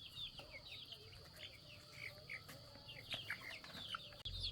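Many short, high bird chirps overlapping in quick succession, fairly faint, over a faint steady high tone. A low rumble comes in near the end.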